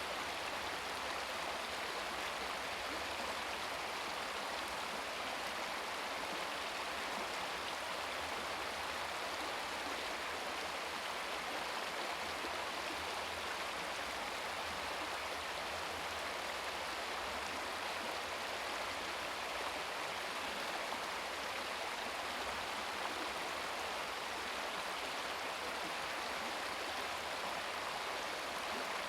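Babbling brook: water running and splashing over rocks in a shallow stream, a steady, even rush without pauses.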